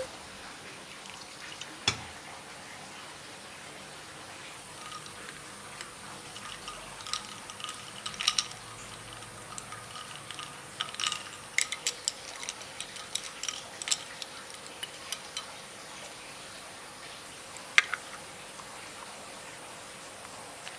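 Light clinks and taps of kitchen utensils against bowls and dishes, scattered and clustered in the middle, with a sharp knock about two seconds in and another sharp click near the end.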